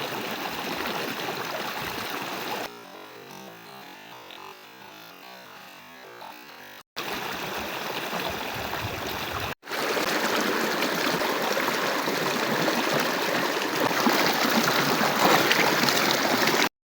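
Flowing river water, in several short clips cut together: a quieter stretch about three seconds in, two brief dropouts, then louder rushing water until it stops abruptly.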